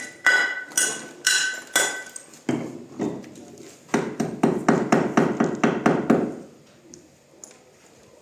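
Hammer blows on stone: several ringing strikes about twice a second, then a fast run of lighter taps about five a second that stops about six seconds in.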